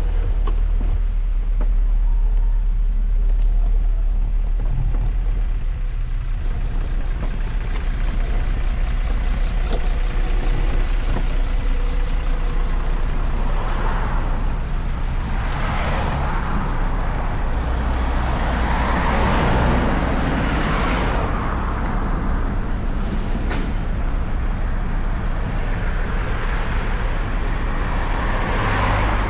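Road traffic heard from a moving electric motorcycle: a steady low rumble throughout, with passing vehicles swelling up and fading away several times in the second half.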